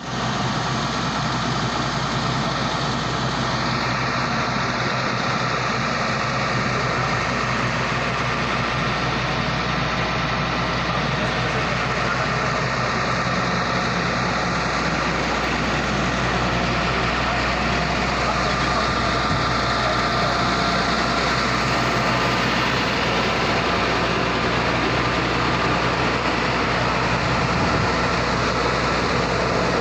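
Caterpillar diesel engine of an A1000 Gen 2 horizontal directional drilling rig, running steadily at a constant speed.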